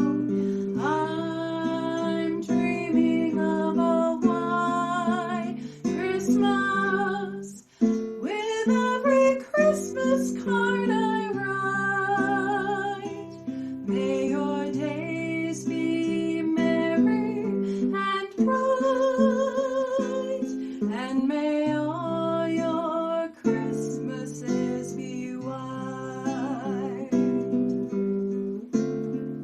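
Acoustic guitar strumming chords under a melody with vibrato.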